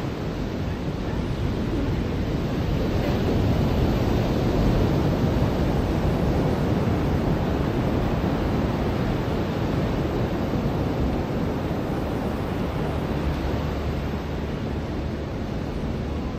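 Ocean surf breaking on a beach: a continuous wash of waves that swells a little about four seconds in and eases off toward the end.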